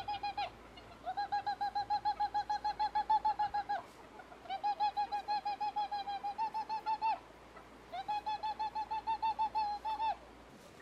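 A bird calling: fast, even trilled phrases of about ten notes a second. Each phrase lasts about two and a half seconds, and a short pause separates one from the next. One phrase ends just as the sound begins, and three more follow.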